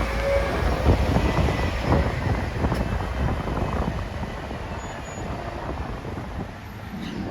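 A vehicle passing, loud at first and slowly fading over several seconds, with wind on the microphone.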